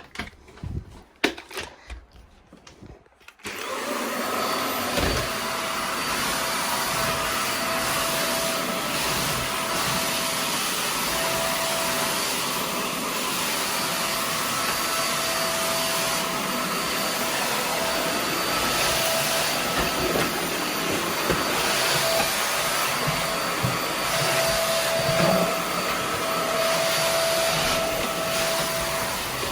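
Vax Air Max Stretch bagless upright vacuum cleaner starting up about three and a half seconds in, after a few light knocks, then running steadily with a whine while vacuuming a hard floor.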